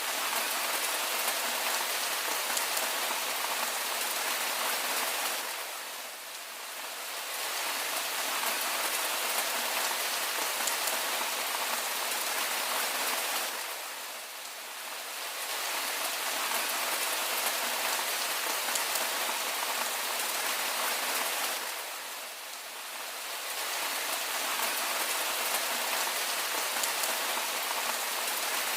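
Steady rain falling, a dense hiss of many drops, easing slightly and swelling back about every eight seconds.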